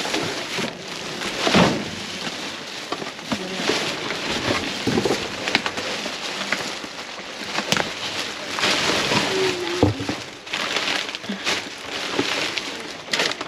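Rummaging through discarded produce in a dumpster: continuous rustling with many scattered knocks and clicks as items are moved about.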